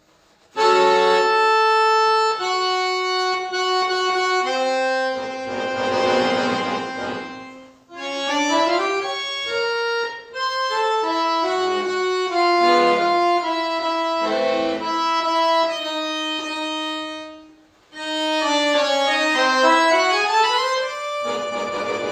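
Solo accordion playing sustained chords and a melody line. It comes in about half a second in after silence, and its phrases break off briefly twice, about 8 and 18 seconds in.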